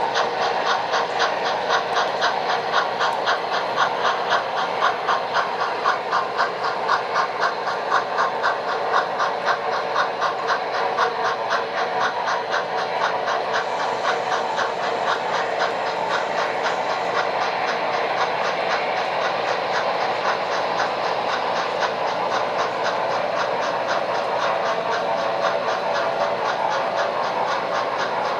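Steam locomotive chuffing at a quick, even beat from an HO scale model's sound system, with hiss between the exhaust beats.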